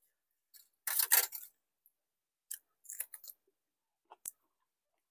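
Close-up eating sounds: people chewing pork-bone curry with winter melon. A loud, noisy burst of mouth noise comes about a second in, then a few short smacks and clicks.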